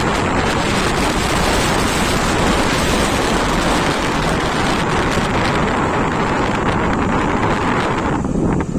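Wind rushing over the microphone of a moving motorcycle: a loud, steady rush with road and engine noise beneath it, dipping briefly near the end.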